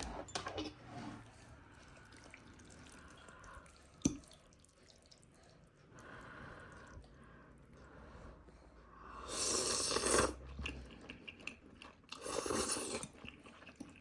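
Quiet chewing as the freshly made food is tasted, with a sharp click about four seconds in and two short bursts of noise later on.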